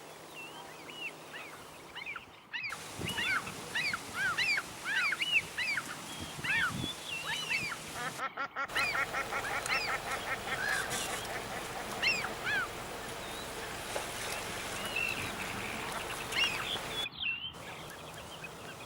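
Outdoor animal calls: many short, rising-and-falling calls in quick succession, with a fast rattling trill about halfway through.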